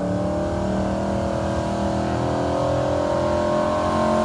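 Gas pickup truck engine running hard under load while pulling a sled, its pitch climbing slowly and getting steadily louder.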